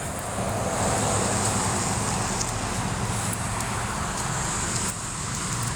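Steady outdoor street noise, a rushing sound of traffic and wind over the microphone. It swells a little about a second in and eases off near the end.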